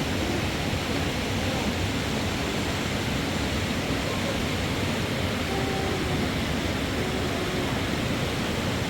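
Steady rushing noise at an even level, with faint voices in the background.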